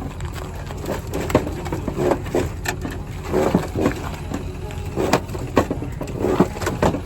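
Repeated bangs and crunches of a second-generation Dodge Ram pickup's body being smashed, over a steady low engine rumble, with a few shouts mixed in. The sound cuts off suddenly at the end.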